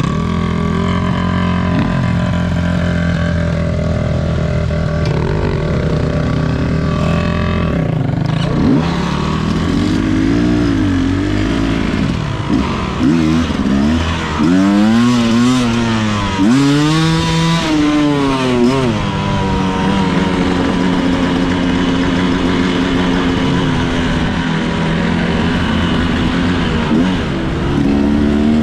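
Enduro motorcycle engine running as the bike is ridden, holding a steady pitch at first, then revving up and down repeatedly with the throttle through the middle, and settling to a steady pitch again for the last several seconds.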